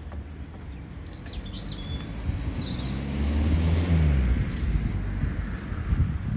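A train passing close by: a low rumble swells to its loudest about halfway through, its drone dropping in pitch as it goes past, then eases off. Small birds chirp a few times in the first half.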